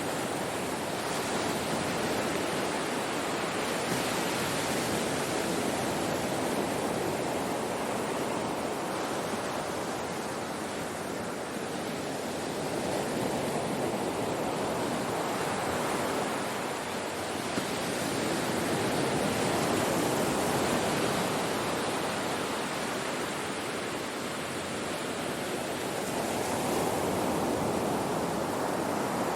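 Ocean surf breaking on a shore: a continuous wash of water noise that swells and ebbs every several seconds as waves come in.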